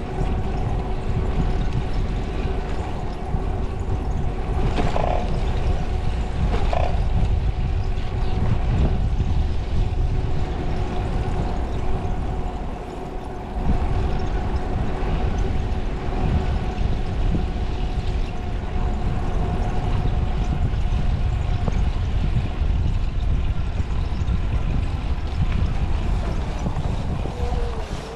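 Wind rushing over the microphone on a moving bicycle, a loud steady low rumble with a faint steady hum above it; it eases briefly about halfway through.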